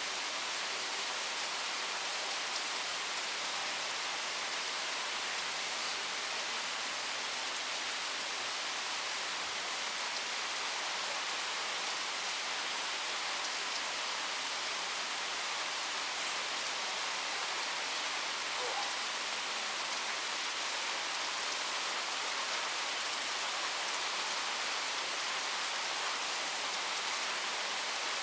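Heavy rain pouring down, a steady even hiss of drops hitting surfaces.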